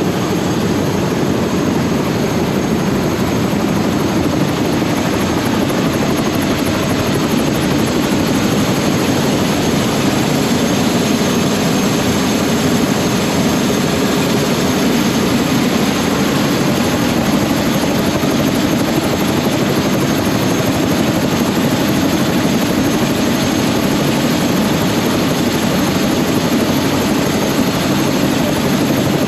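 Helicopter running loud and steady, a continuous rotor and engine din with a fast flutter from the blades.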